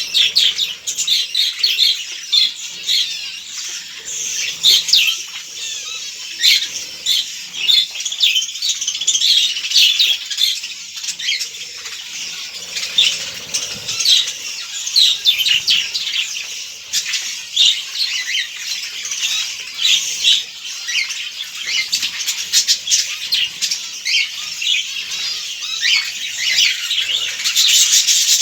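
A flock of budgerigars chattering continuously, a dense mix of rapid high chirps and warbling calls.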